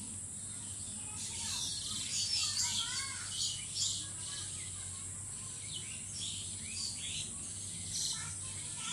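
Birds chirping in short, scattered calls over a steady high insect drone and a faint low hum.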